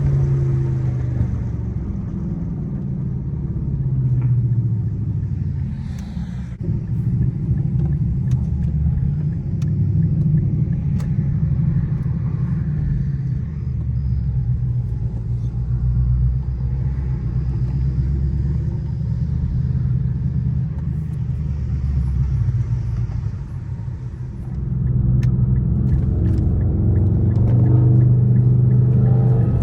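Straight-piped Infiniti M56's 5.6-litre V8 exhaust running with a low, steady note. It grows louder and holds a steadier pitch about five seconds before the end.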